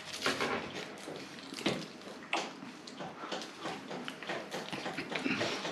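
A person chewing a mouthful of lahmacun, with irregular wet, crackly mouth and chewing noises several times a second.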